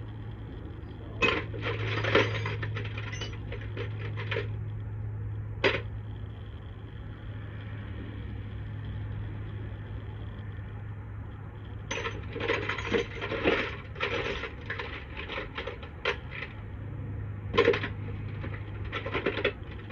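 Metal sockets and hand tools clinking and rattling against each other as they are sorted through in search of the right size, in several bursts with pauses between them. A steady low hum runs underneath.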